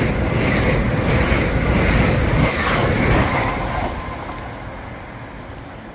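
LNER Azuma Class 801 electric train (801215) running past on the main line with a loud wheel-on-rail rumble and hiss, which starts to fade away about four seconds in.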